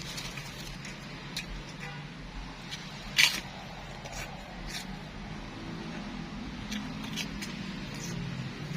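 Eating sounds: short crunchy bites and clicks of a spoon or wrapper, the sharpest about three seconds in, over a steady low background hum.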